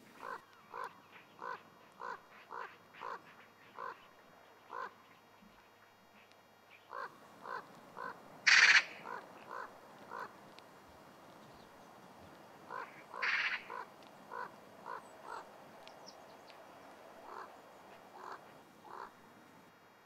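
Birds calling: a run of short, evenly spaced calls, roughly one or two a second, with two louder, harsher calls about eight and a half and thirteen seconds in.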